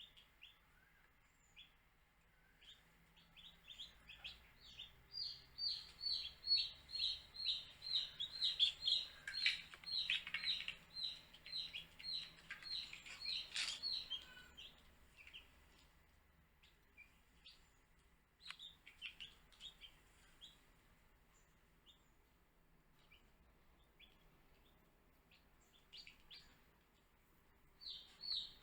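Baby chicks peeping: a quick run of short, high, slightly falling chirps, about three a second, that fades after the first half into scattered single peeps. Another quick run starts near the end.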